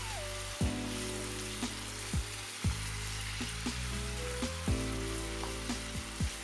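Chicken pieces sizzling in hot oil in a nonstick pan while a wooden spatula stirs and turns them, with a few sharp knocks of the spatula against the pan.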